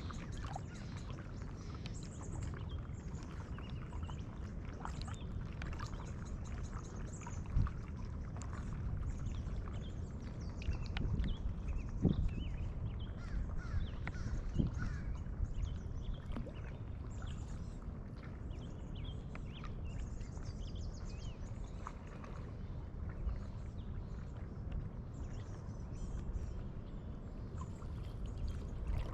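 Kayak paddling on a lagoon: paddle blades dipping and water splashing and dripping, with a few louder knocks, over a steady low rumble.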